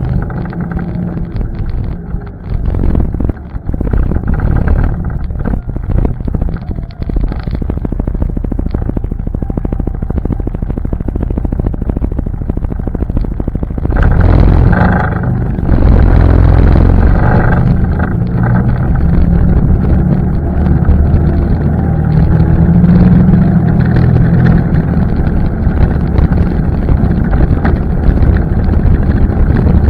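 ATV engine running under way, with wind buffeting the microphone. From about halfway through it runs louder and steadier, as if under more throttle.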